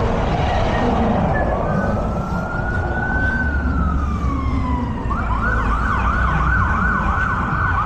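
Emergency-vehicle siren sounding over traffic rumble: a slow rising and falling wail, switching about five seconds in to a fast yelp of quick repeated sweeps.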